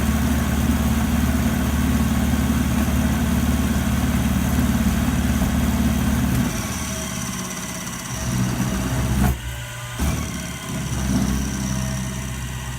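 Electric motor of a metalworking machine tool running with a steady low hum. About halfway through, the sound drops to a lower level and turns uneven.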